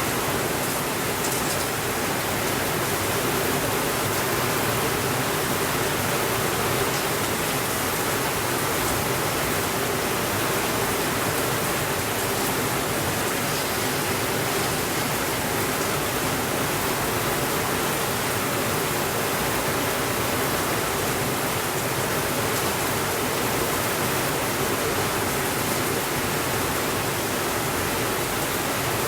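Steady rain falling, an even unbroken hiss with no changes in level.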